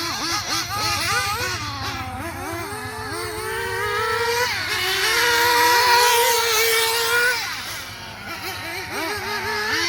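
Rebuilt Spower S7 nitro RC engine on a test run, its throttle blipped so the revs rise and fall quickly. About four and a half seconds in, it is held at higher revs for nearly three seconds, then drops back to quick blips.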